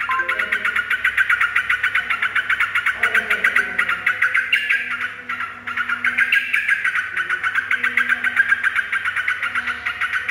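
Yellow-vented bulbul (cucak trucuk) chattering continuously in a rapid run of quick chirps, easing briefly about five seconds in before picking up again.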